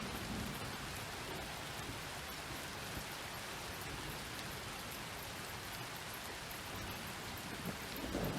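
Steady rain falling, with the tail of a low thunder rumble fading out at the start and another rumble of thunder starting to build near the end.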